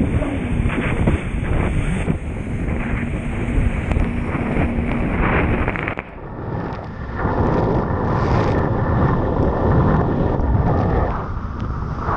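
Wind buffeting the microphone on a moving jet ski, over the engine's steady hum and rushing water. The sound changes abruptly about halfway through.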